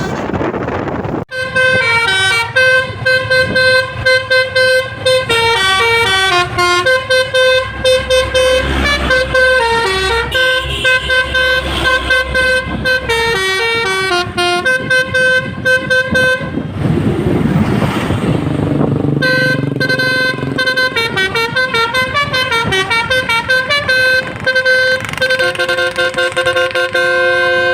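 A truck's basuri musical air horn playing a tune of stepped notes. About two-thirds of the way through the melody breaks off for a couple of seconds under a low rumbling noise, then starts again.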